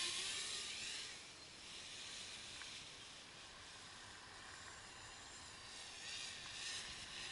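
200 mm quadcopter's brushless motors and propellers buzzing faintly, the whine gliding up and down in pitch as it flies, growing a little louder about six seconds in.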